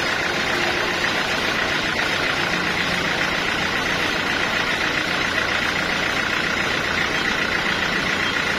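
Sawmill machinery running steadily, a constant engine-like hum with no change in load.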